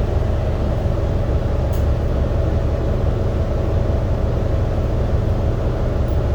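R subway train running, heard from inside the car: a steady, loud rumble of wheels and motors with a constant hum underneath.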